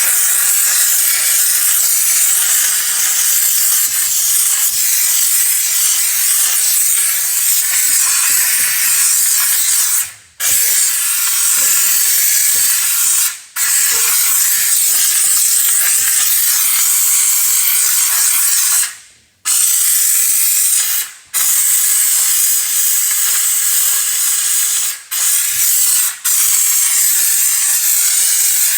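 Steam cleaner jetting steam in a loud, steady hiss, cutting out briefly about six times, the longest gap a little before the two-thirds mark.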